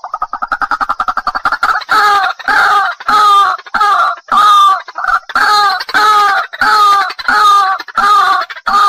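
White-breasted waterhen calling: a fast run of short notes for the first couple of seconds, then loud, repeated calls about two a second.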